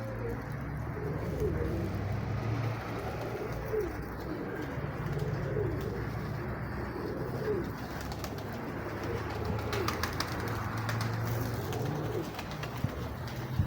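Nikolaev domestic pigeons cooing over and over in low, bending calls, with wind rumbling on the microphone.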